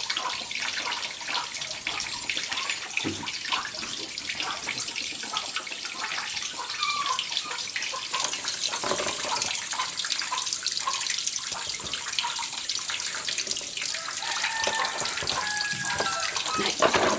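Water splashing and pouring during a bath, with many short splashes over a steady running-water hiss.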